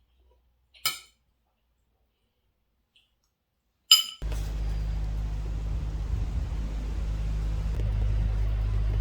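Two short ringing clinks about three seconds apart, the second louder. Then, after a cut, a vehicle's steady low rumble with road noise starts and runs on.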